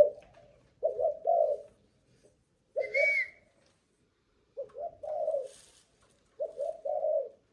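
Captive spotted dove cooing over and over, a short phrase of two or three low notes about every two seconds, as in a stamina test of its cooing. A brief higher note overlaps one phrase about three seconds in.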